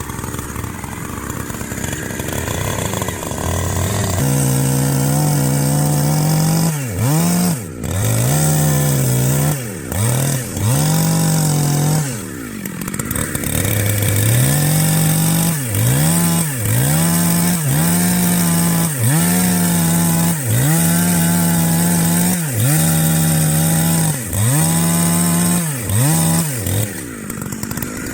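Small two-stroke chainsaw engine revving high. Its pitch dips briefly and swings back up again and again, about once a second in the second half. Before that it runs lower and quieter for the first few seconds, then rises.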